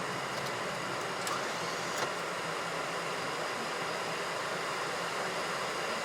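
Steady hiss and hum on a Boeing 737NG flight deck while taxiing after landing: air-conditioning airflow and engines at idle. Two faint clicks come about one and two seconds in.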